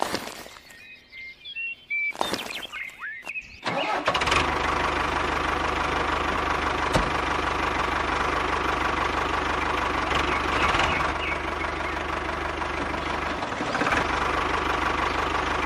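A small engine starts about four seconds in and then runs steadily at an even speed. Before it starts there are a few short chirps and clicks.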